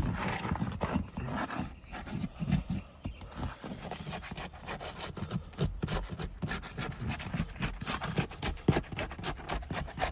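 Asphalt roof shingles being unsealed for a repairability test: tabs pried and pulled loose from their sealant strips, an irregular run of scraping and rubbing with many small clicks.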